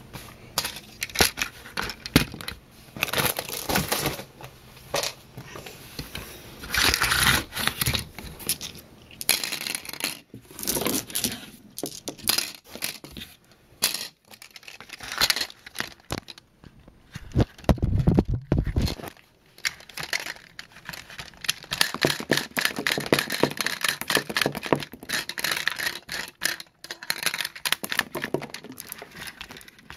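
Close handling of a plastic B-Daman marble-shooter toy and its marbles: irregular rustling, scraping and small clicks, with one duller bump a little past the middle.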